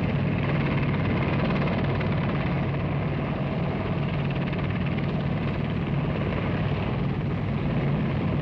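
Helicopter running steadily, its rotor and engine noise unbroken.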